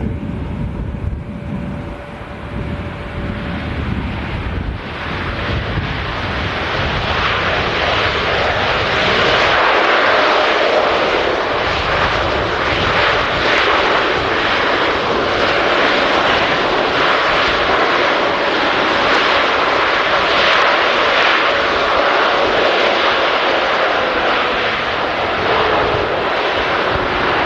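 Large jet airliner passing low on landing approach. Its engine roar swells in about five seconds in and stays loud, with a faint whine that slowly drops in pitch near the end.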